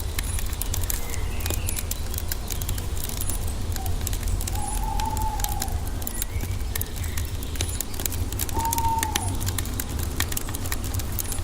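Wood fire crackling with frequent sharp pops over a low steady rumble. A bird gives short arching whistles, one about five seconds in and another about nine seconds in, with fainter higher chirps between.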